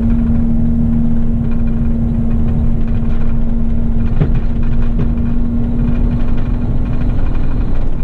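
Heavy rigid truck's engine and road noise heard inside the cab while driving: a steady low rumble with a constant hum.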